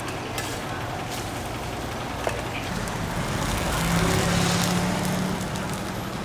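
A road vehicle passing close by: its engine noise swells about three seconds in, peaks, and fades near the end, over a steady low hum and a few light clicks.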